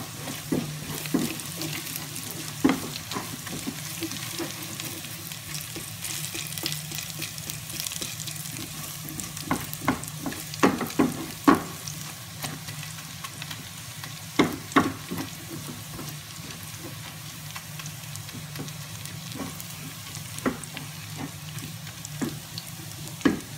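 Browned onions and ginger-garlic paste frying in oil in a stainless steel pot, sizzling steadily while a silicone spatula stirs and scrapes. A run of louder scraping strokes comes about halfway through.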